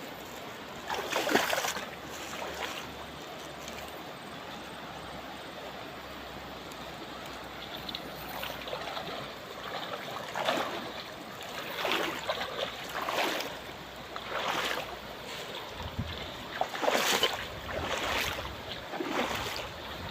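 Shallow river water flowing steadily, with splashes in the water about a second in and then every second or two through the second half.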